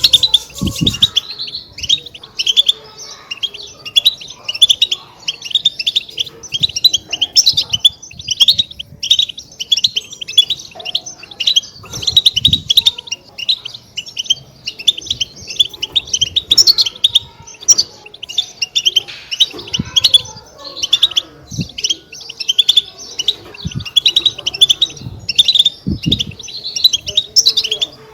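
European goldfinch twittering: a dense, unbroken stream of short, quick chirps, the 'batbata' chatter that keepers play to set goldfinches singing. A few soft low knocks come through now and then.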